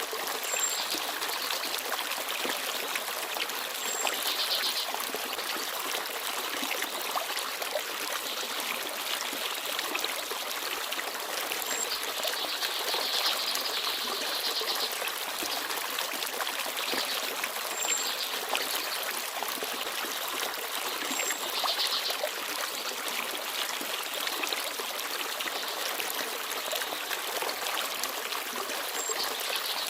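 Small forest stream babbling and trickling steadily, with brief high bird chirps every few seconds.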